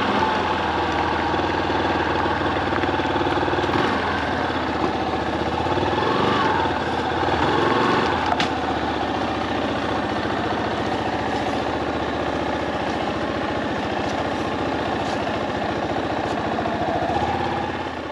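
Yamaha Serow 250's single-cylinder four-stroke engine running steadily, its pitch swelling briefly about a third of the way through, then fading out near the end.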